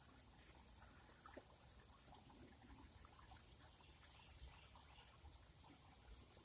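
Faint trickle of water in a small garden fish pond, close to silence, with a few tiny clicks.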